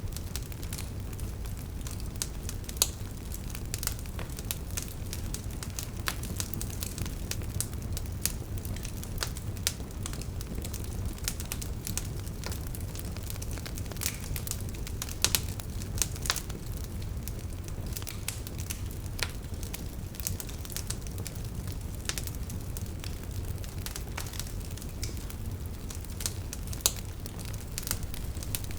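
Wood fire burning: a steady low rumble with frequent sharp crackles and pops from the burning logs, a few louder pops standing out.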